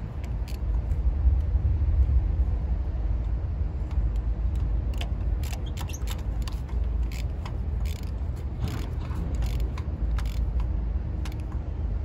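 Steady low rumble with scattered light clicks and taps of tools and engine parts being handled during an ignition coil and spark plug job.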